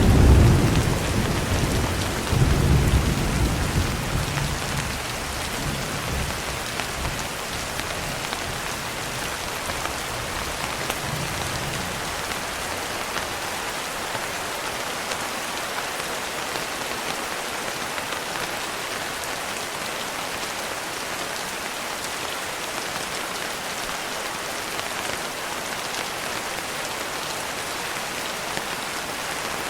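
Steady rain, with a roll of thunder rumbling at the start that swells once more and dies away over roughly the first ten seconds; after that, rain alone.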